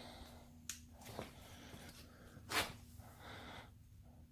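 Faint handling noises and breathing: a few short clicks and knocks, the loudest about two and a half seconds in, over a faint steady hum.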